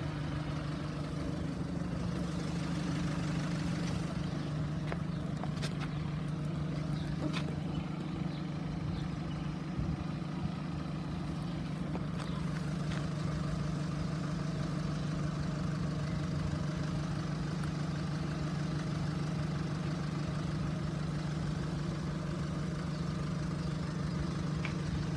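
A vehicle engine idling steadily, with a low even hum throughout.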